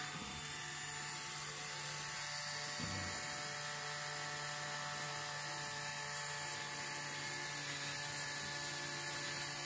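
Black & Decker Wizard rotary tool running at steady speed with a wire-wool attachment on its tip, making a constant high whine over a low hum as it cleans the bare die-cast metal of a stripped model car body.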